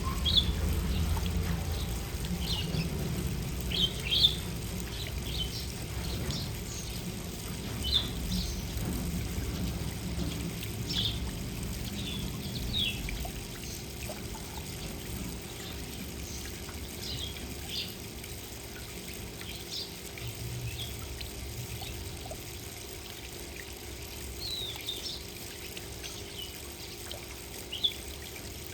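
Small garden birds chirping: short, high chirps every second or two, over a low rumbling background noise that eases off about halfway through.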